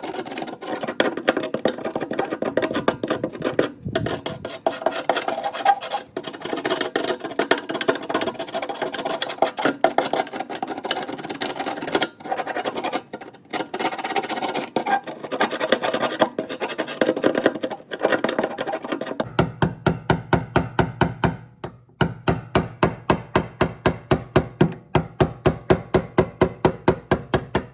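Hand tools working metal on a steel truck gas tank as it is being opened: rapid, uneven scraping and clicking, then about two-thirds of the way in a steady run of sharp strokes, about four or five a second.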